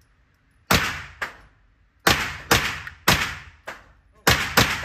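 Gunshots from a firearm at a shooting range: six sharp shots in a little over four seconds, at an uneven pace with some fired in quick pairs, each followed by a short echo tail.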